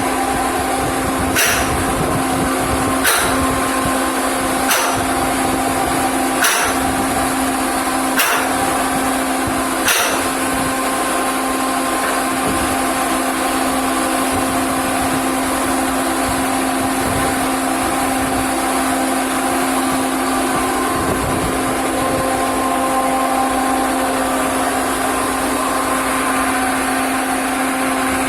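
Steady drone of industrial machinery with a constant hum, and six sharp, evenly spaced knocks about every second and a half to two seconds over the first third.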